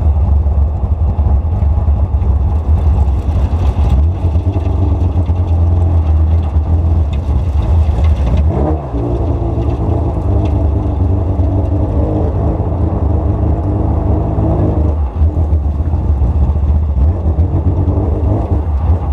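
Porsche GT3 Cup car's flat-six engine running at low revs as the car rolls slowly, with a heavy low rumble. About halfway through, its pitch dips and climbs again, as at a gear change, and it eases off briefly near the end.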